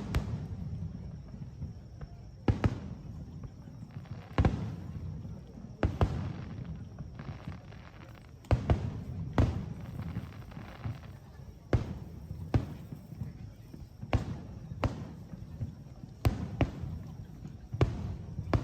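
Fireworks display: about a dozen sharp bangs of shells bursting, spaced irregularly a second or two apart, each with a short echoing tail, over a low rumble.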